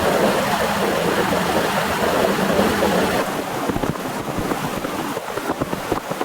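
Torrential rain, a dense steady rush; about three seconds in the sound changes abruptly to a thinner rush with many separate heavy drops striking close by.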